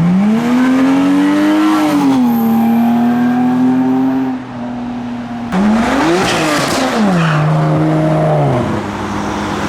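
A car engine revving hard and accelerating, its pitch rising and then holding. A quick rev blip comes about six seconds in, and it eases off near the end.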